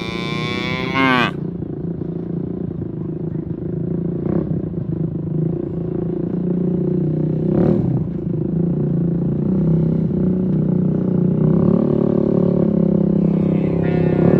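A cow moos once, loud and falling in pitch, right at the start, over a steady low motor drone. A couple of brief knocks come about four and eight seconds in.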